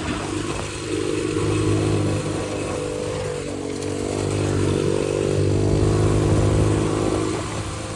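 X-Pro 125cc single-cylinder dirt bike engine running, opened up twice for a few seconds and easing back between.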